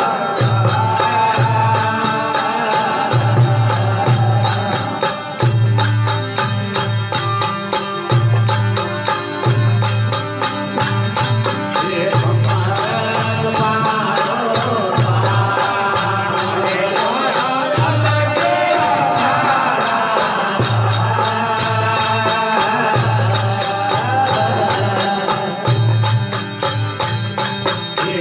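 Rajasthani devotional folk music (desi bhajan) with a steady beat: a drum keeps a regular low pulse, jingling percussion ticks continuously, and a melodic line glides above.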